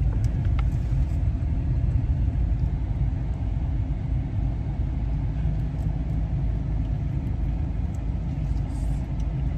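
Steady low rumble of a car driving, the road and engine noise of a vehicle in motion.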